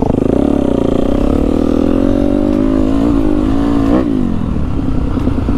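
A dirt bike engine running steadily, its pitch rising and falling a little with the throttle.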